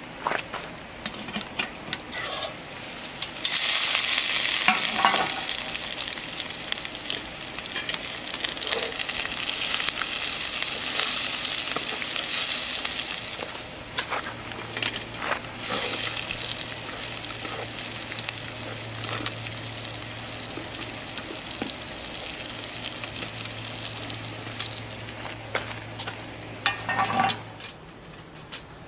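Potatoes, peppers and onions sizzling as they fry in a pan over a small wood fire in a folding firebox stove, with clicks from the utensil stirring them. The sizzle jumps up about three and a half seconds in and stays loud for about ten seconds before easing off. A metal clatter near the end.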